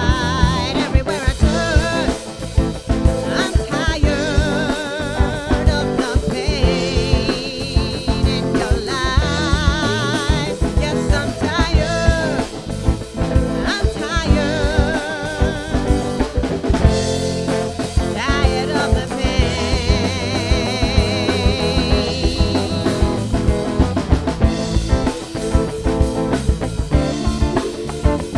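Funk band music: a drum kit keeps a steady beat under bass, guitar and Hammond organ, with wavering held notes above.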